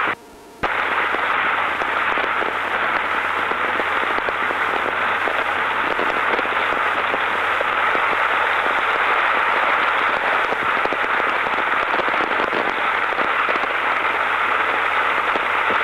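Autocom motorcycle intercom channel left open by a wrongly set voice-activation (VOX) gate: a steady, crackly hiss of wind and road noise with a low hum underneath. It cuts out for about half a second near the start, then comes back.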